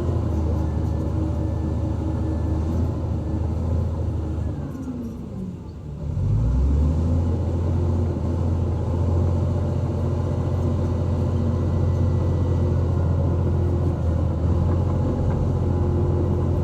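Diesel engine of a heavy earthmoving machine running under load; about five seconds in the revs drop and then pick back up.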